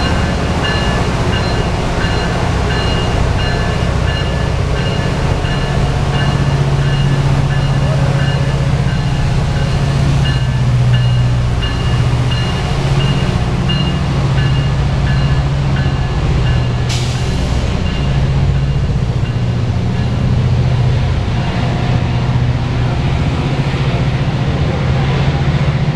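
Metrolink train led by an MP36PH3-C diesel locomotive passing close by, its engine giving a steady low drone over the rumble of the bilevel coaches on the rails. A high ringing repeats through the first part, and a single sharp clank comes about two-thirds of the way through.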